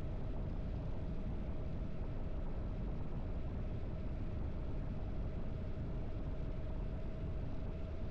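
Harley-Davidson motorcycle engine running at a steady pace while riding, a constant low rumble with a thin steady hum above it and no change in revs.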